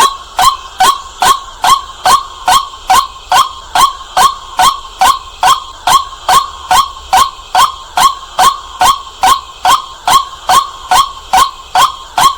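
White-breasted waterhen calling over and over in a fast, even series of short notes, about two a second, each sliding down in pitch.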